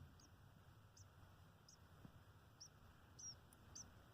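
Faint, high, short cheeps from a nestling sparrow, about six of them under a second apart, one a little longer with a falling tail near the end.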